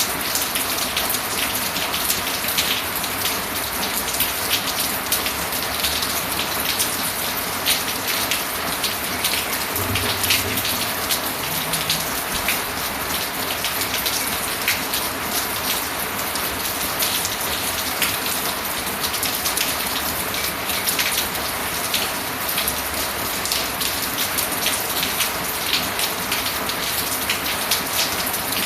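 Steady rain falling, with many fine drop ticks throughout.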